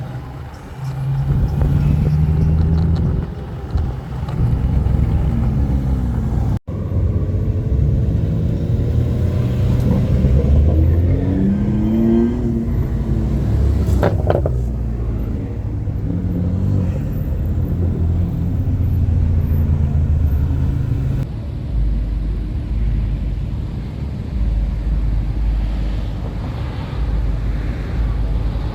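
Car engines running with a low rumble, revved up and down a few times near the middle.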